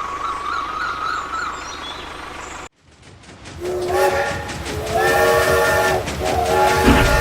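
A thin, wavering whistle-like tone cuts off suddenly, and after a brief silence a multi-tone train horn sounds a chord in repeated held blasts of about a second each.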